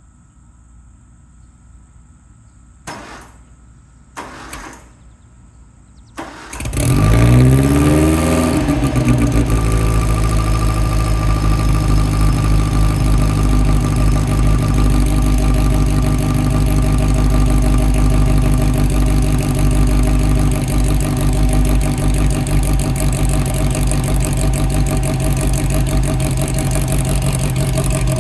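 1952 MG TD's XPAG four-cylinder engine starting from cold. Two short sounds come about 3 and 4 seconds in. About 6 seconds in it catches, its pitch sweeps about for a couple of seconds, and it settles into a steady run with the choke on.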